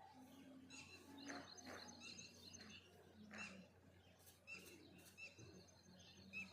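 Faint birdsong: several birds chirping in short, repeated high notes throughout, with a few brief low notes underneath.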